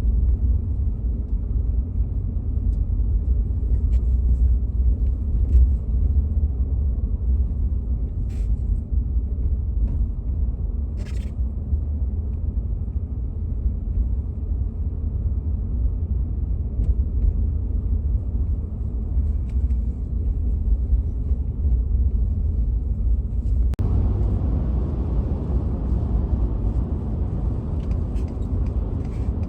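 Steady low rumble of a vehicle on the move, heard from inside the cab, with a few faint clicks. About 24 seconds in, a louder hiss of road noise comes in over the rumble.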